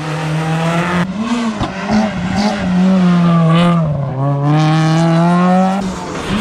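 Rally car's engine driven hard, the revs dropping and climbing again several times as the driver lifts and shifts, with a long rising pull that cuts off sharply near the end.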